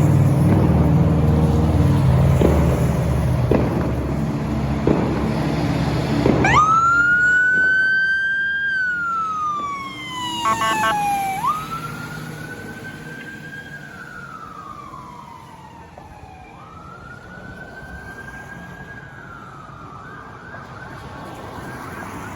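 An emergency vehicle's heavy engine rumbles as it pulls off. About six seconds in its siren is switched on in a slow rising-and-falling wail, which fades as the vehicle drives away. Near the end the siren switches to a faster warble.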